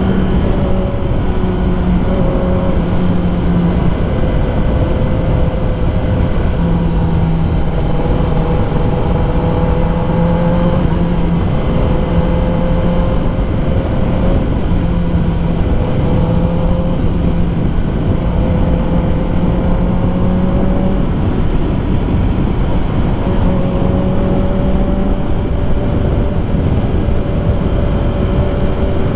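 Kawasaki ZX10R's inline-four engine running at fairly steady revs while riding, its pitch rising and dipping slightly, under heavy wind rumble on the helmet microphone.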